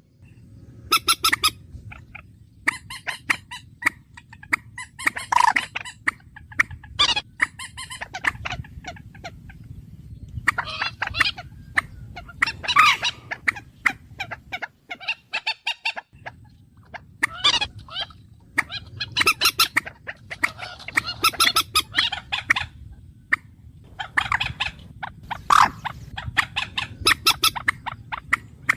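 Bird calls repeated over and over: bursts of rapid, chattering notes about a second long, with pauses of a second or two between them, over a low steady hum. The hum drops out briefly about halfway through.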